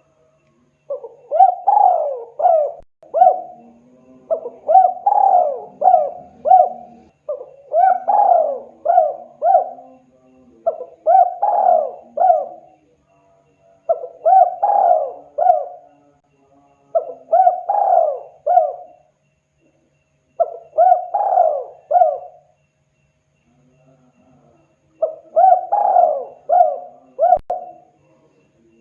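Spotted dove (tekukur) cooing: eight repeated phrases of about four notes each, one every three seconds or so, starting about a second in, with a longer pause shortly before the last phrase.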